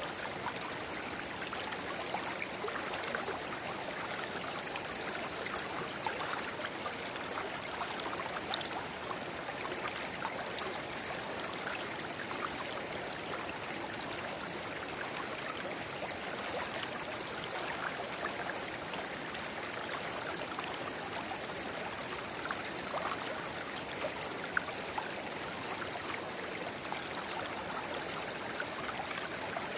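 Shallow river babbling steadily over stones, with a small spring-fed rivulet trickling into it: an even wash of running water flecked with fine splashes and bubbling.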